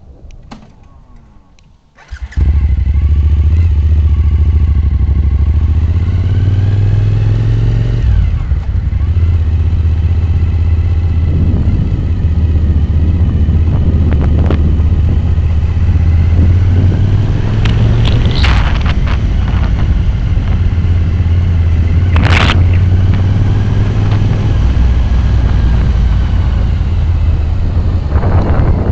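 Motorcycle riding: the engine runs under heavy wind buffeting on the microphone, which starts suddenly about two seconds in and stays loud, with a couple of sharp clicks later on.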